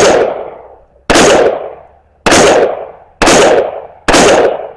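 .300 Blackout rifle fired five times in steady succession, about one shot a second, each shot trailing off over most of a second.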